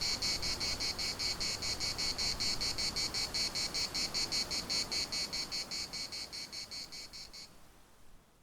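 Cicadas singing: a loud, rhythmic buzzing pulsing about six times a second, which stops near the end as everything fades out.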